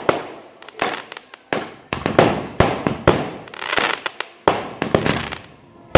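Fireworks going off in a fast, irregular run of sharp bangs, one or two a second, each followed by a fading echo.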